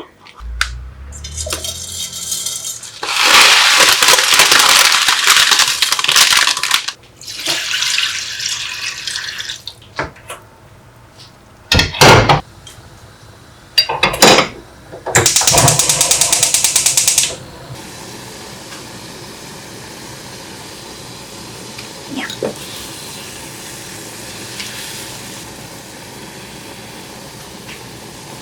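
Kitchen tap running into a sink in several bursts of a few seconds each, with a sharp knock between them, then a faint steady background noise.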